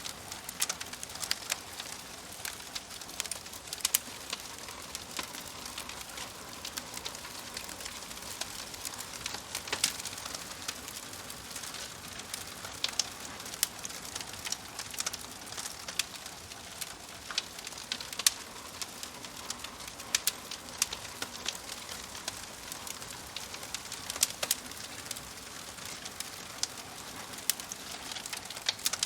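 Fireplace fire crackling: a steady soft hiss with frequent, irregular sharp pops and snaps.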